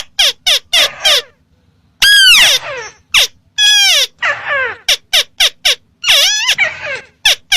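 Crake lure call (burung tikusan): bursts of short, harsh, squawking calls, some notes sliding down in pitch, with a brief pause early on.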